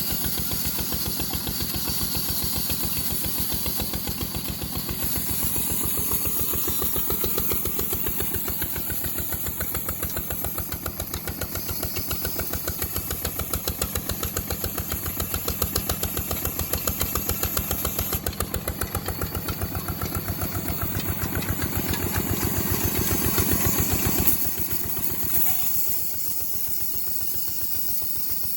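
Diesel engine running with a steady, even firing beat. About 24 s in it drops suddenly to a quieter, lighter running sound.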